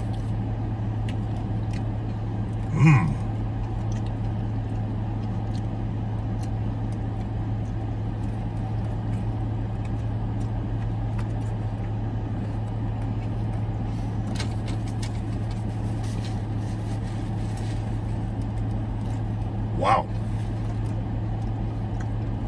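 Steady low hum inside the cabin of a parked Dodge Challenger with its engine idling. Faint chewing runs under it, and two short, louder sounds come about three seconds in and near the end.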